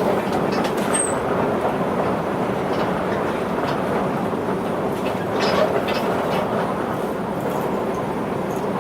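Cabin running noise of a Linimo HSST maglev car cruising between stations: a steady, even rush with no wheel or tyre rhythm, and a few faint ticks here and there.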